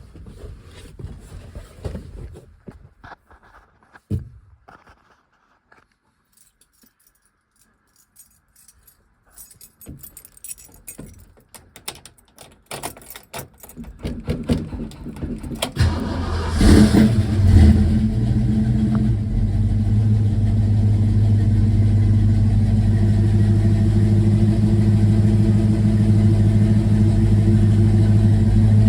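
Cold start of a 1964.5 Ford Mustang: light clicks and rattles, then the starter cranks for about two seconds. The engine catches with a brief rise in revs and settles into a steady, even idle for the last ten seconds or so.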